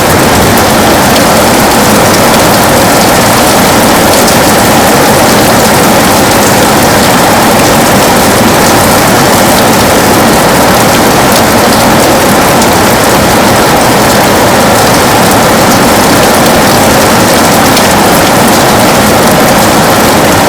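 Heavy rain falling steadily on a window: a loud, even hiss with a fine patter of drops.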